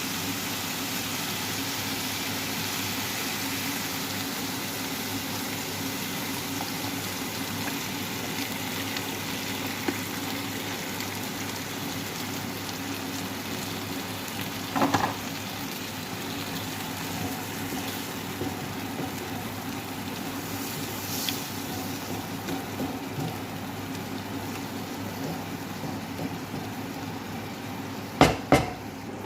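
Chicken and mushrooms frying in a pan, sizzling steadily, with a few sharp knocks about halfway through and twice near the end.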